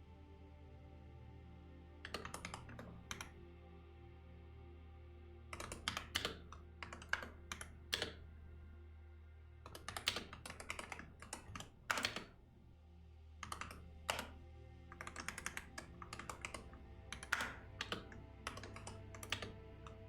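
Typing on a computer keyboard in quick bursts of keystrokes with short pauses between, over soft background music.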